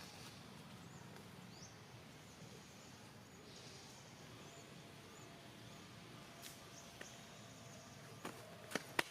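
Faint outdoor background noise with a few small high chirps, then several sharp clicks or knocks near the end.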